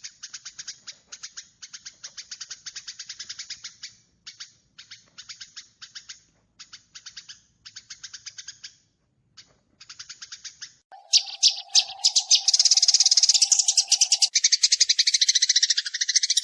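Sparrows chattering in fast trains of high chirps, a lure-call recording for bird trapping. The trains come in bursts with short pauses, then about eleven seconds in they turn louder and denser, with a steady lower tone underneath for about three seconds.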